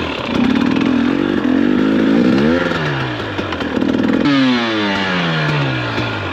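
2021 KTM 250 XC-W two-stroke dirt bike engine running under throttle, revving up about two and a half seconds in. A little after four seconds the throttle is chopped and the revs fall steadily.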